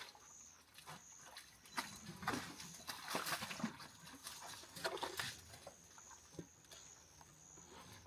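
Elephants moving close by: irregular rustling and cracking, loudest about two, three and five seconds in. A steady, high-pitched pulsing chorus of frogs runs underneath.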